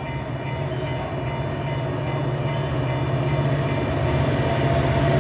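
Metra commuter train with an F40PH diesel locomotive approaching the station, its engine rumble growing steadily louder.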